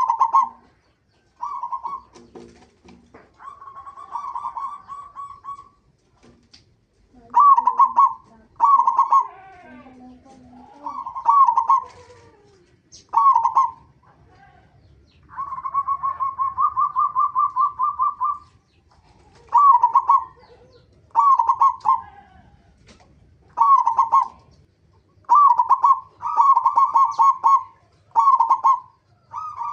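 Zebra dove (perkutut) cooing: a string of short, fast-pulsing coo phrases with brief pauses between them, and one longer, evenly rolling coo lasting about three seconds near the middle.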